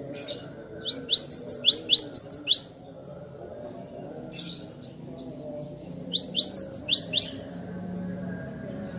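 Cinereous tit (glatik batu) singing: two bursts of quick, rising, high notes, about seven in the first and six in the second, a few seconds apart.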